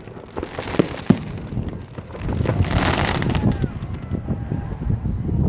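Fireworks going off: two sharp bangs about a second in, then a loud rushing hiss lasting about a second around the middle.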